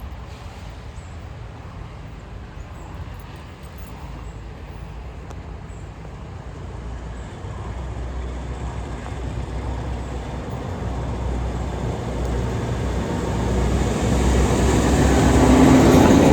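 Diesel-hauled freight train approaching, its low rumble growing steadily louder through the second half and loudest near the end, with a steady engine tone coming through as it nears.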